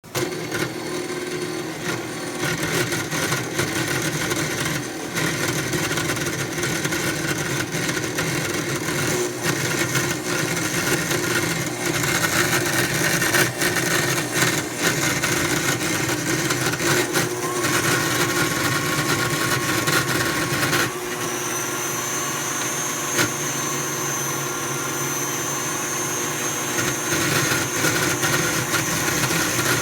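KitchenAid Artisan stand mixer motor and gearbox running continuously with a grinding noise. About two-thirds of the way through the sound shifts and a thin, steady high whine comes in.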